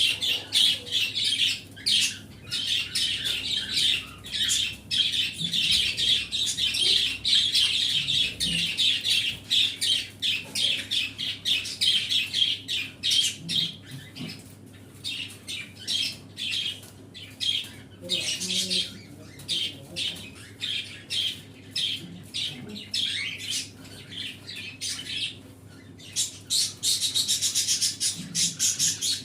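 A flock of small pet cage birds chirping and chattering in a dense stream of quick high notes. The chatter thins to scattered chirps in the middle and turns busy and rapid again near the end.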